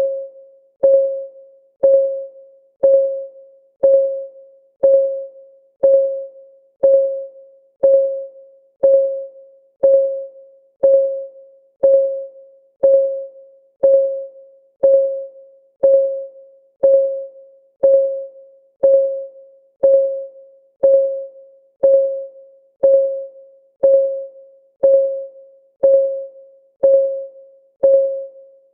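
Countdown timer's clock-ticking sound effect: a short, pitched tick about once a second, each a sharp click with a quickly fading tone, perfectly steady and even.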